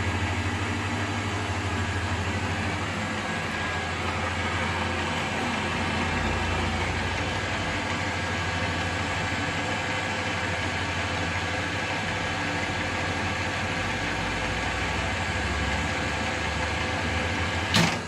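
Freshly restored Colchester Student lathe running under power with a steady hum, then a sharp click near the end.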